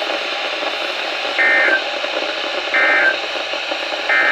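NOAA Weather Radio receiver hissing with static, broken by three short identical bursts of SAME digital data tones about 1.4 seconds apart. These are the end-of-message code that closes an Emergency Alert System warning.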